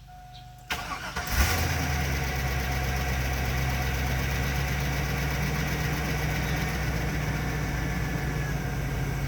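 2001 Chevrolet Silverado 2500 HD's 6.0 V8 cranked by the starter, catching after under a second and settling into a steady idle. It has the little 'no oil pressure sound' for a few seconds, milder this time but still there, like an engine just after an oil change while pressure builds; the owner suspects a failing oil pickup tube O-ring.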